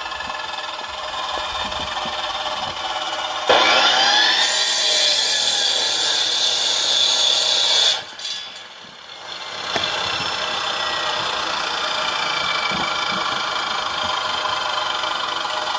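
Chainsaw running at a steady speed, then revved up sharply about three and a half seconds in and cutting wood for about four seconds. The engine then drops off and settles back to a steady run, revving up again at the very end.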